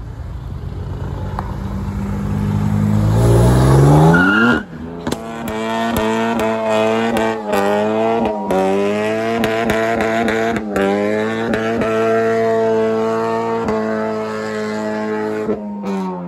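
Car engine revving hard during a burnout: the revs climb about three to four seconds in, are held high and wavering with the tyres spinning, and drop off near the end.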